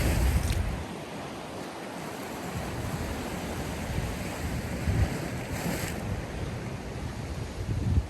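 Sea waves washing and breaking on the shore, with gusts of wind buffeting the microphone at the start, about five seconds in and near the end.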